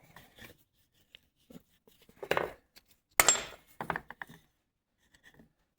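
Small steel baler knotter parts clinking and clattering as they are handled and set down, with two louder clanks a little over two and three seconds in and a few lighter ticks after.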